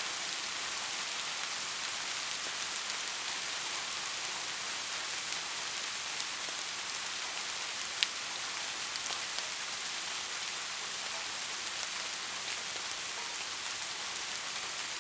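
Steady rain, an even hiss with scattered faint drip ticks. One sharper, louder tick comes about halfway through.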